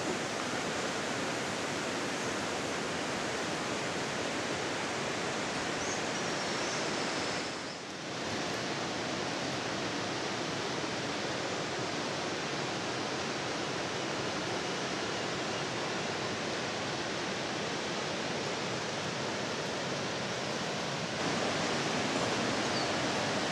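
Steady, even rushing outdoor noise with no distinct events. It dips briefly about eight seconds in and gets slightly louder near the end.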